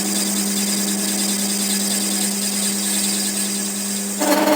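Workshop power tool running steadily, with a constant hum and a high hiss. It briefly gets louder and more tonal near the end.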